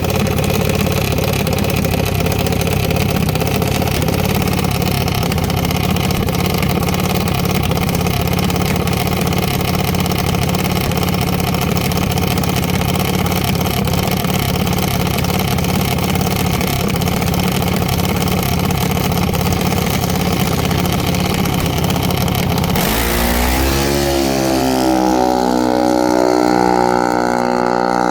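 Jr. Dragster's single-cylinder engine running loud and steady. About 23 seconds in its pitch slides and settles into a steadier, lower engine hum.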